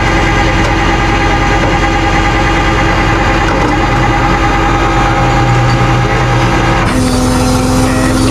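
Truck engine running steadily, its tone changing abruptly about seven seconds in.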